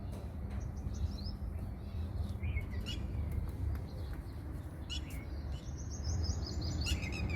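Red-wattled lapwings calling: several short sharp calls, some sliding in pitch, and a quick run of repeated notes near the end, over a low steady hum.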